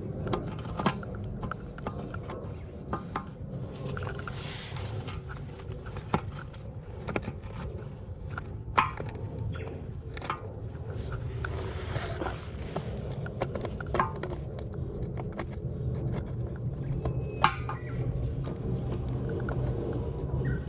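Hand work on pipe fittings: irregular metallic clinks, knocks and scrapes, a few ringing briefly, over a steady low hum.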